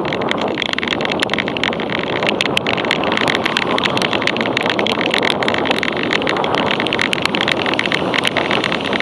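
Mountain bike being ridden in the rain: a steady rush of tyre and wind noise with a constant patter of small clicks and rattles.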